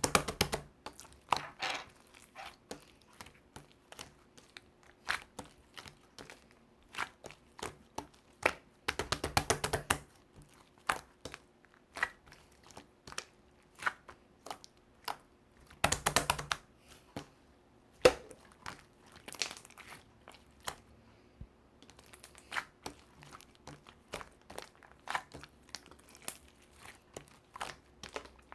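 Crinkling and crackling handling noise: a string of separate sharp clicks and rustles, with denser bursts of crinkling about nine and sixteen seconds in.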